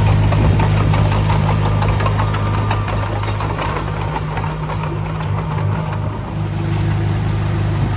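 Diesel engine of a road-building machine running steadily with an even low hum. Scattered small clicks and rattles ride over it, and it eases slightly about six seconds in.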